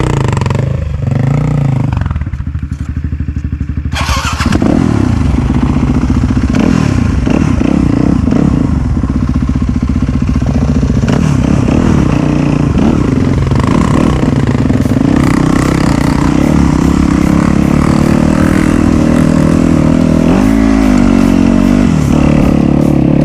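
Off-road dirt bike engine under way on a trail, dropping low for a couple of seconds near the start, then pulling harder with its pitch rising and falling as the throttle opens and closes, with one quick rev a little before the end.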